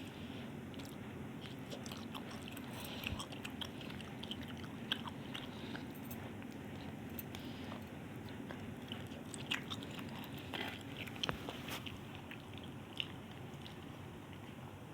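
A person chewing and eating Maggi instant noodles close to the microphone: soft wet mouth clicks scattered throughout, with a few short louder mouth sounds, over a steady low background hum.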